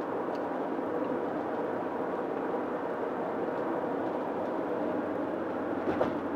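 Steady road noise inside a car cruising on a highway: tyre roar and engine hum, with a faint tick near the end.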